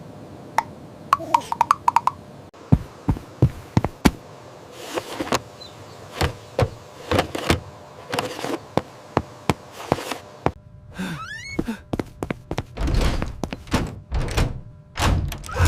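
A string of sharp knocks and thuds, some in quick runs, with a few short rising squeaks about eleven seconds in and heavier thumps near the end.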